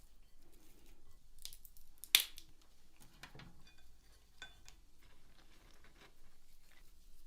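Scattered small clicks, taps and rustles of hands working with food and utensils, with one sharp click about two seconds in.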